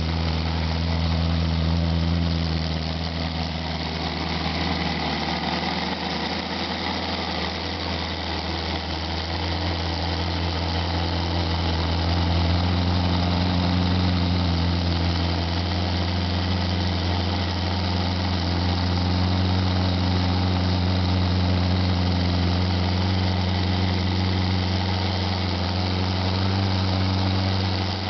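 Radial engine running steadily with an even, unchanging drone.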